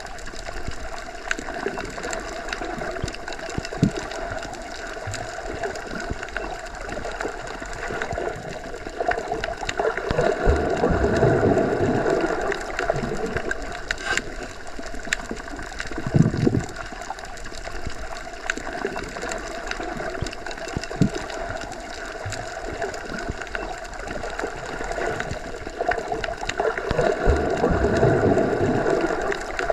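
Underwater ambience: a steady muffled hum and hiss, as heard with the ears submerged in a pool or lake, swelling louder twice, with scattered faint clicks.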